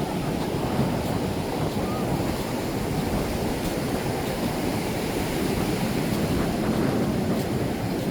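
Ocean surf washing onto a beach, a steady rushing with wind on the microphone.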